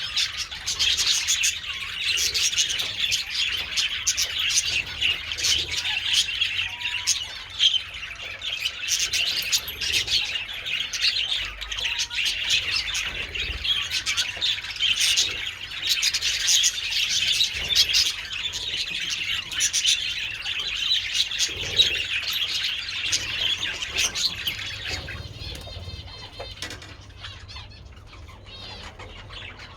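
A colony of budgerigars chattering and chirping continuously in many overlapping voices. The chatter thins and quietens over the last few seconds.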